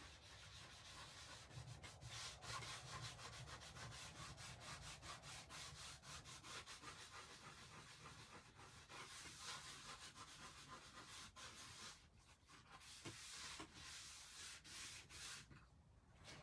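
Faint rubbing of paper towels wiping wet red chalk paste off a craft board surface, in many quick, irregular strokes with a short pause about twelve seconds in.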